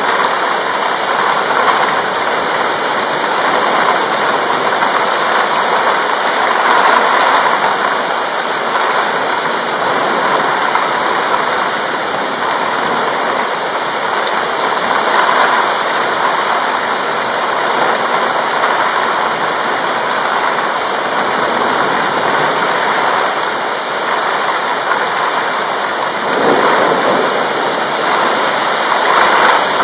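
Steady, loud rain in a thunderstorm, a dense even hiss that swells a little now and then.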